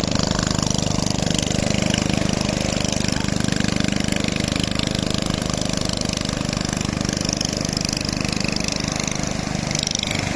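A fishing boat's engine running steadily with an even, fast firing pulse, under a constant hiss.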